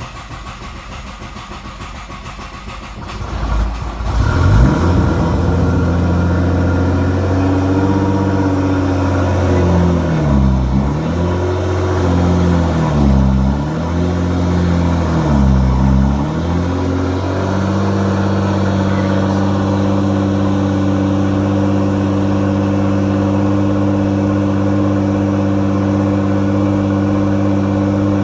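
Nissan GT-R R35's twin-turbo V6, on a muffler-less 4-inch Y-pipe exhaust with no mufflers, cold-starting: the starter cranks for about four seconds before the engine catches loudly. The revs sag and recover three times as it struggles on E85 after sitting a while, which the owner calls pretty normal, then it settles into a steady, loud idle.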